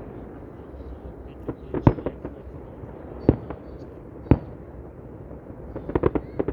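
Fireworks bursting at irregular intervals: single sharp bangs a second or so apart, then a quick cluster of several bangs near the end, over a steady background rush of noise.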